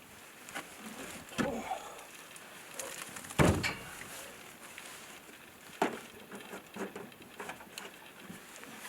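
Scattered light knocks and clicks, with a heavier thump about three and a half seconds in and another near six seconds.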